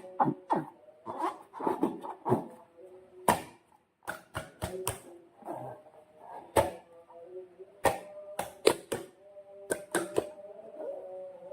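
Slime and rubber balloons being handled: irregular sharp sticky pops and clicks, with wavering rubbery squeaks between them.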